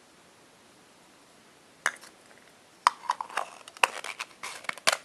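Small hard plastic toys being handled: one click a little before two seconds in, then a run of quick sharp clicks and clatters from about three seconds in.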